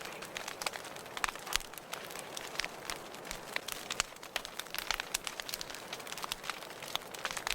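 Wood fire burning in a fireplace, crackling with many small, sharp pops at irregular intervals over a steady soft hiss.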